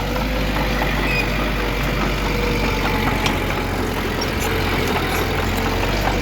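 Heavy diesel engine of earthmoving machinery running steadily: a continuous low hum with a faint, slightly wavering whine above it and a few light clicks.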